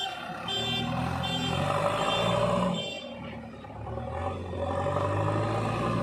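JCB 3DX Xtra backhoe loader's diesel engine running and revving up twice under load, with a reversing alarm beeping repeatedly over the first half.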